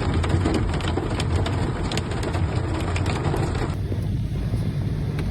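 Hail pelting down hard, a dense patter of sharp ticks over a steady low rumble. Nearly four seconds in, the sound changes abruptly to a softer, even hiss with only a few ticks.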